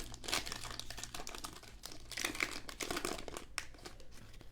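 Plastic trading-card pack wrapper being torn open and crinkled by hand, with the loudest crinkling near the start and again about two to three seconds in.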